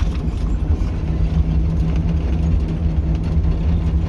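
YaMZ-236 diesel engine of a TU6A narrow-gauge locomotive running steadily as the locomotive travels, heard from inside the cab as a loud, even low drone with a steady hum that firms up about half a second in.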